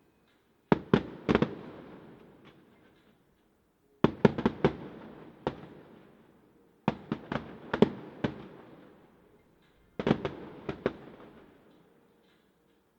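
Display fireworks going off in four quick volleys of sharp bangs, about three seconds apart, each volley dying away before the next.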